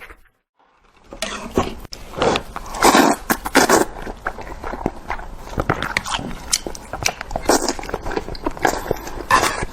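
A person eating Indomie instant noodles: a dense, irregular run of wet chewing and mouth sounds that starts about a second in, after a brief near-silence.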